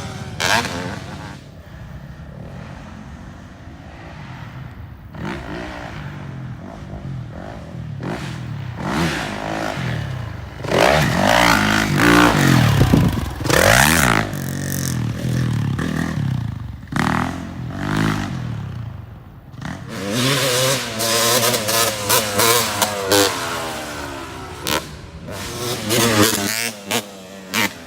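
Off-road vehicle engine being ridden, revving up and falling back again and again as the throttle opens and closes, with frequent knocks and rattles over rough ground.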